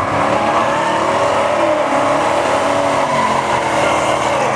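Mopar muscle car engine running at high revs during a burnout, loud and steady with slowly wavering pitch, while its rear tyres spin on the tarmac.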